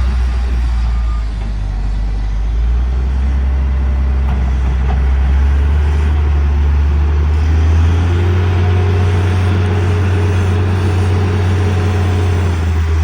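Wheel loader's diesel engine working under load, its pitch stepping up about two and a half seconds in and again around eight seconds in, with a single reversing-alarm beep about a second in.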